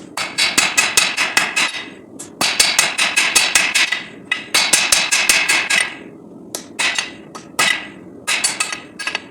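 Hand hammer forging a 5160 steel knife blank on an anvil, each blow ringing. There are three quick runs of blows at about six a second, then a few slower single strikes in the last few seconds.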